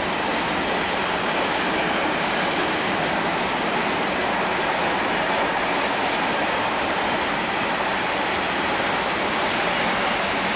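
Loaded freight train of high-sided open wagons rolling past close by: a steady noise of steel wheels running on the rails, even in level throughout.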